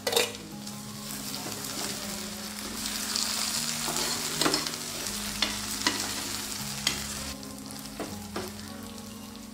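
Chopped tomatoes and onions sizzling in hot oil in a frying pan while a steel ladle stirs them, knocking and scraping against the pan in sharp clicks. The sizzle swells a few seconds in.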